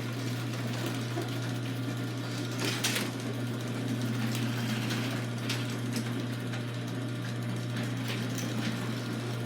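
Chamberlain chain-drive garage door opener running as it lowers the door: a steady motor hum under the noise of the chain drive, with a few brief clicks, the clearest about three seconds in.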